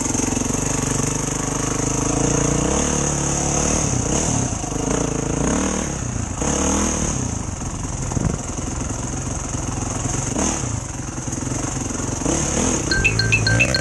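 Enduro motorcycle engine running, its speed rising and falling. Near the end comes a quick run of short, high electronic beeps.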